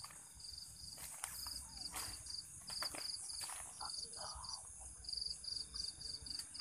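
Crickets chirping: short, high, pulsed chirps repeating two or three times a second, with a few faint clicks and bumps of handling underneath.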